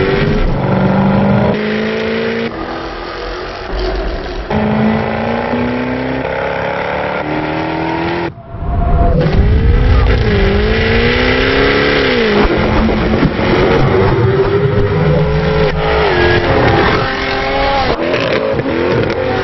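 Jaguar F-Type Coupe engine accelerating hard, its pitch climbing and dropping back in steps as it shifts up through the gears. The sound cuts out briefly about eight seconds in, then the engine revs rise and fall several times.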